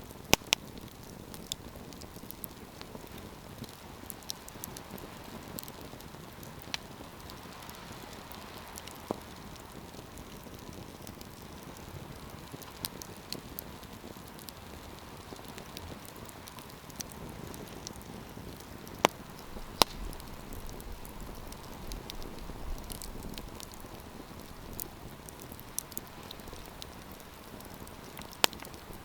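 Campfire crackling: a steady soft hiss of burning with scattered sharp pops, the loudest just after the start, two about two-thirds of the way through, and one near the end.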